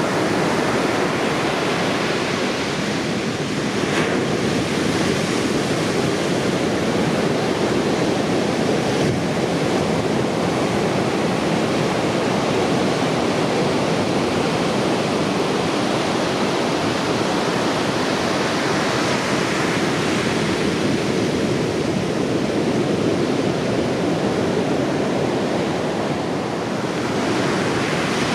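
Heavy surf from a typhoon swell breaking continuously on a sandy beach: a dense, steady rush of water noise that swells and eases slightly, dipping briefly near the end.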